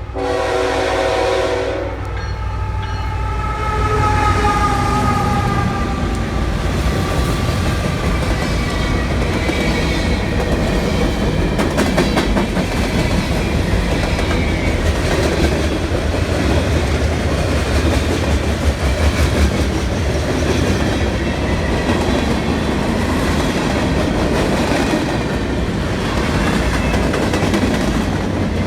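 Freight train locomotive horn sounding a chord that cuts off about two seconds in. It is followed by the locomotives and a long string of freight cars rolling past with a steady, loud rumble of wheels on rail.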